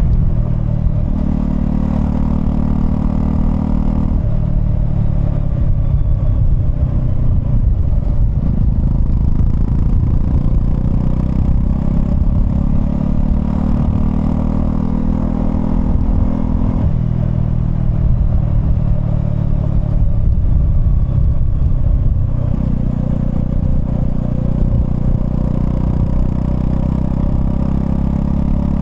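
Honda CL250's single-cylinder engine running under way on the motorcycle, its note stepping up and down a few times as the revs change.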